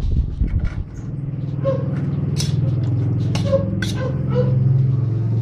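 A utensil clicks and scrapes against a pan several times at irregular moments as chicken is stirred. Under it runs a steady low hum.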